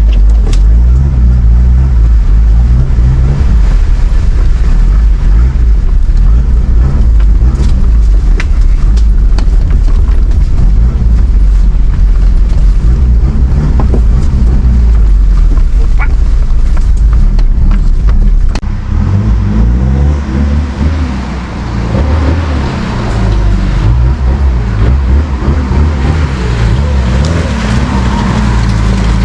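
Mitsubishi Pajero Dakar driving off-road: a constant low rumble of engine and ride, with a few sharp knocks. In the second half the engine note rises and falls as the driver works the throttle.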